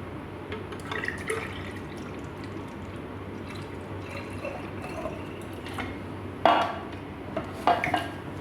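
Cucumber juice being poured into a glass: liquid trickling and filling, with a few sharp glass knocks, the loudest near the end.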